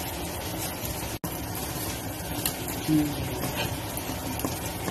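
Chopped garlic and ginger sizzling steadily in hot oil in a frying pan, with a few faint clicks of a spoon against the pan. The sound drops out for an instant just after a second in, and there is a brief low hum about three seconds in.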